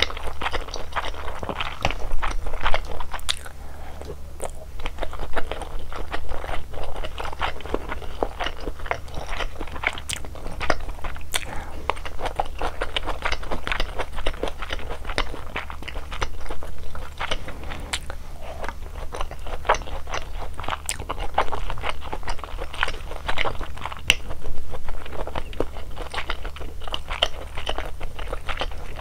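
Close-miked eating sounds: crunching, biting and chewing mouthfuls of malatang, a spicy Sichuan hot pot of vegetables and noodles, in a dense run of irregular crunches and clicks over a steady low hum.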